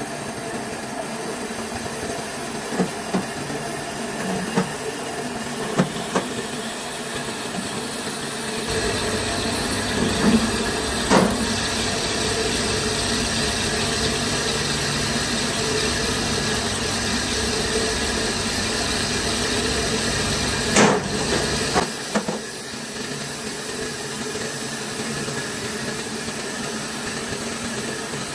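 Steady workshop machinery noise: an even rushing noise with a low hum that comes in about nine seconds in and drops away around twenty-two seconds in. A handful of short, sharp knocks sound along the way.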